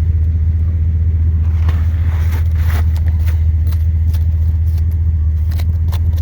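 Chevrolet 8.1L big-block V8 idling steadily, with scattered light knocks and scrapes over it.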